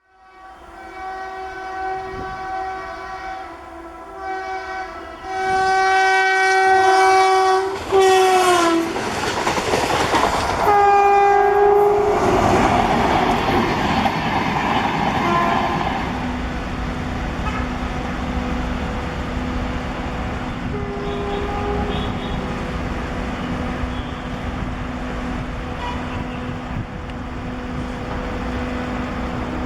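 A WAM-4 electric locomotive's horn sounds several blasts as it approaches, its pitch dropping as it goes by, then one more blast. The rushing and rail clatter of the Shatabdi Express coaches passing follows, with a steady hum underneath and a short horn note a little after halfway.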